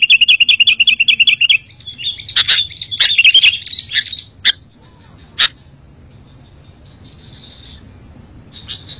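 Sooty-headed bulbul (kutilang) singing. A fast, even trill of chirps runs for about the first second and a half, then gives way to scattered chattering calls and sharp notes. The second half is faint calling, with a louder call near the end.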